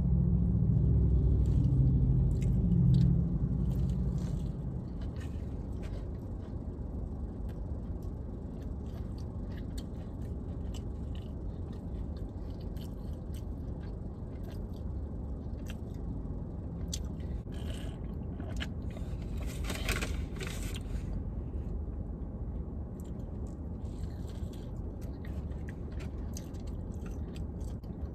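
A person chewing a mouthful of breaded, crispy fried chicken sandwich, with soft crunches and wet chewing sounds, and a louder, noisier crunch about twenty seconds in. A steady low rumble runs underneath, and the first few seconds are louder in the low range.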